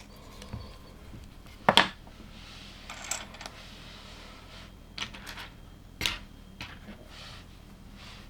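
LEGO plastic pieces being handled and snapped together: a handful of sharp clicks, the loudest a little under two seconds in and another about six seconds in, with light plastic rattling in between.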